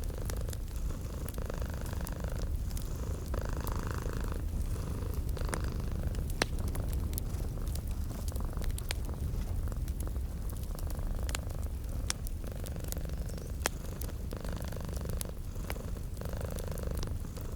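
Domestic cat purring steadily in slow breath cycles, over crackling and popping from a wood fire in a fireplace.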